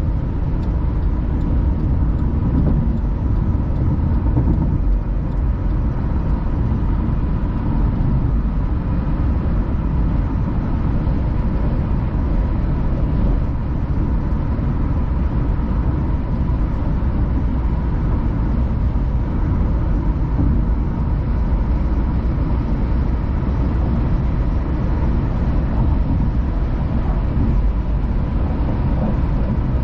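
Steady road and engine noise of a car driving, a low rumble with a faint steady whine, heard from inside the cabin.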